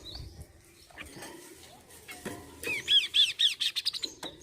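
Kaso-kaso bird calling: a few short scattered notes, then from a little before the three-second mark a loud, rapid run of arched whistled notes, about six or seven a second, lasting over a second.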